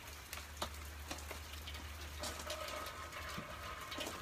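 Steady rain with scattered close drips and patters. About halfway through, a faint steady high tone comes in.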